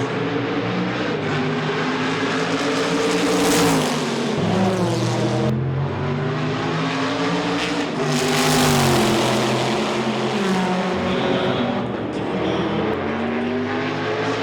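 Corvette C5-R's 7-litre racing V8 running hard, its engine note repeatedly rising and falling through acceleration and gear changes. It swells loudest about four seconds in and again around nine seconds in, as the car passes close.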